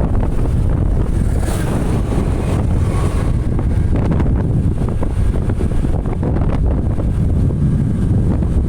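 Wind buffeting the microphone: a loud, steady, low rumble with no clear engine note.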